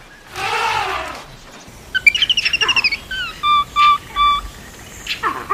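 Animal calls: a single drawn-out call that rises and falls, then a rapid run of bird-like chirps, three short level whistled notes, and a few quick falling calls near the end.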